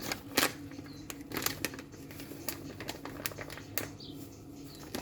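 Irregular light clicks and knocks of kitchen things being handled, a few a second, over a steady low hum, with a few faint short high chirps.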